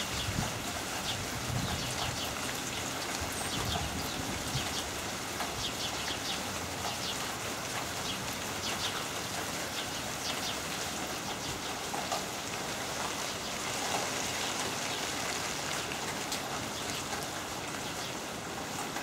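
Heavy rain pouring steadily, with a dense hiss of drops and many individual drops pattering close by, and gusts of wind buffeting the microphone in the first few seconds.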